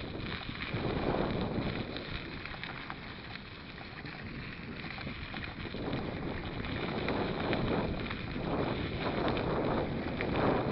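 Wind buffeting the microphone of a camera riding on a moving mountain bike, swelling and easing every few seconds, over the rolling noise of the tyres on a dirt track with scattered small clicks and rattles from the bike.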